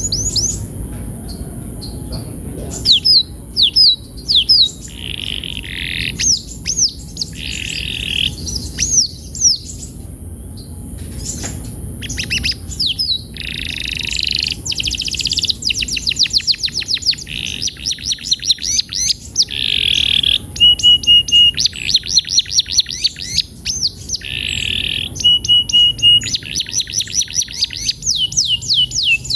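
Male canary singing: short rising and falling whistles, then long fast trills of repeated notes (the canary 'roll'), with two held steady notes in the second half.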